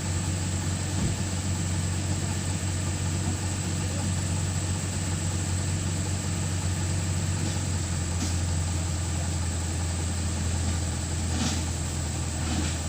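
Truck engine running steadily at low revs, an even idle with no revving.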